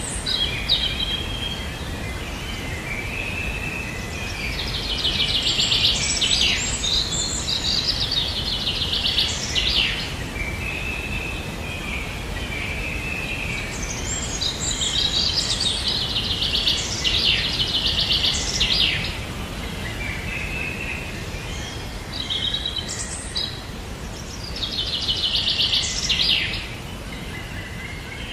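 Birds singing, in three bouts of fast, high trills about ten seconds apart, with shorter chirps between them, over steady background noise.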